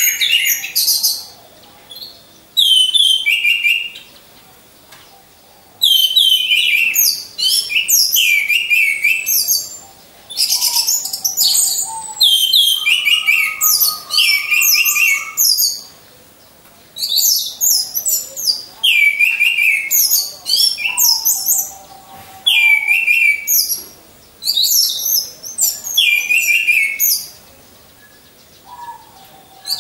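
Orange-headed thrush singing loudly in phrases several seconds long, with short pauses between them. Each phrase is a rapid run of high chips and trills mixed with falling whistled notes. This is the full, continuous song used as a lure to get other anis merah singing.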